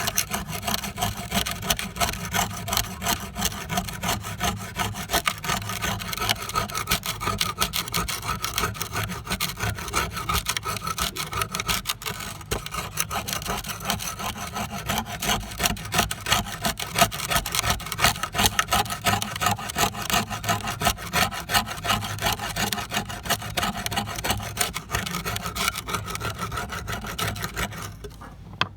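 Rapid, continuous rasping and rubbing strokes of hand abrasive work on an old trowel during its restoration.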